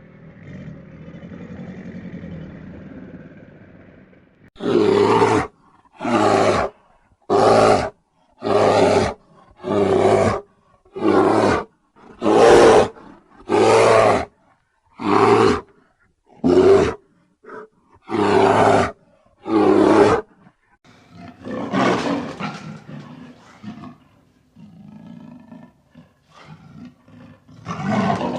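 A large animal roaring: about a dozen loud calls of even length and spacing, roughly one every second and a bit, then rougher, irregular calls near the end.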